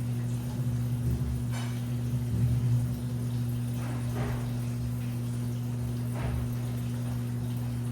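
Washing machine running: a steady low motor hum, with a swish of water sloshing in the drum every two seconds or so as it turns.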